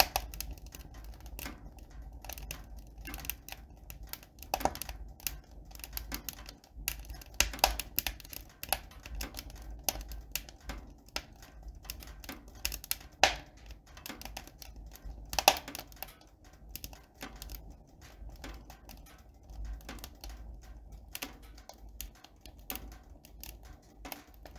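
Irregular sharp clicks and taps, several a second and uneven in loudness, over a low steady hum.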